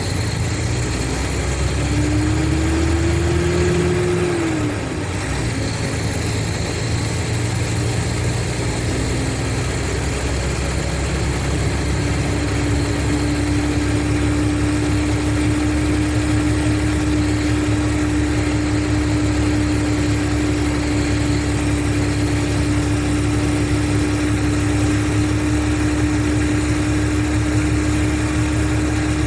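Mercedes-Benz O500RSD coach's six-cylinder diesel engine running steadily, with a whine that rises in pitch for a couple of seconds and drops off about five seconds in, then a steady whine from about twelve seconds in.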